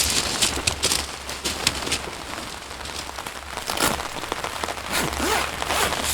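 Steady rain falling, with irregular sharp pattering drops and taps.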